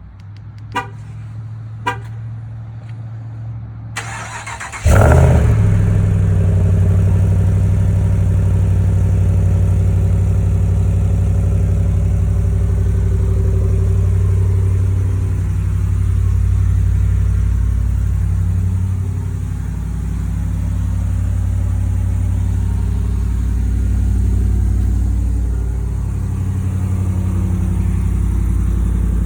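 2019 Ram 1500 cold start through a Flowmaster Outlaw direct-fit muffler. A few clicks come first, then the engine catches about five seconds in with a loud burst and settles into a steady, deep idle that swells and eases a little.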